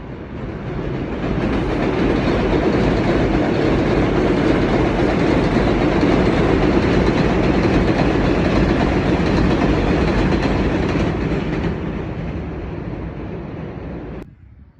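New York City subway train running on the rails, a loud steady noise that builds over the first two seconds, holds, eases off after about twelve seconds and cuts off abruptly just before the end.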